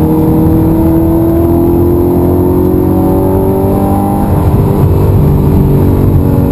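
Audi R8 engine heard from inside the cabin, pulling hard under load, its pitch rising steadily as the car accelerates.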